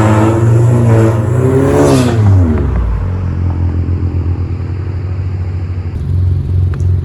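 Straight-piped exhaust of a 2018 Honda Civic hatchback's turbocharged engine, with a catted downpipe and the muffler and resonator deleted, being revved. The revs hold high, then drop back about two seconds in. The engine then settles to a low idle, which swells louder again about six seconds in.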